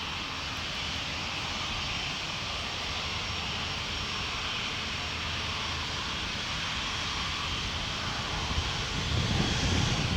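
Jet airliner engines running with a steady rush and a faint high whine, and a low rumble that swells near the end.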